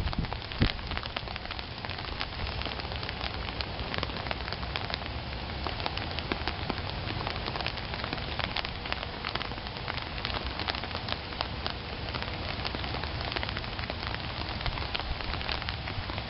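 Steady rain falling, an even hiss dotted with many sharp ticks of individual drops striking close by.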